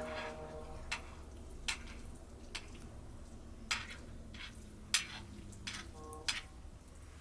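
Metal spoon knocking and scraping against a metal cooking pot: about nine sharp clinks at uneven intervals, one near the end ringing briefly.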